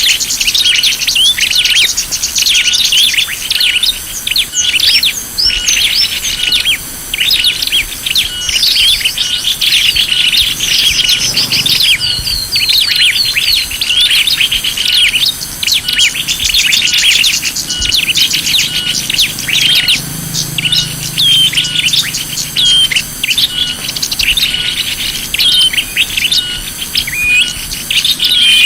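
Dense chorus of small songbirds chirping and twittering, many quick overlapping calls and short whistled glides, as played from a bird-lure (pikat) recording meant to draw small birds in. Beneath it, a short lower note repeats at an even pace.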